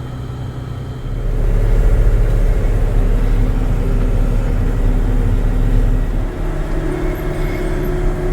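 Swather's engine running steadily under load, with a deep low rumble that swells about a second in.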